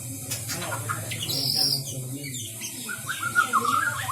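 White-rumped shama (murai batu) singing, a run of sharp whistled notes and glides, then a warbling phrase about three seconds in.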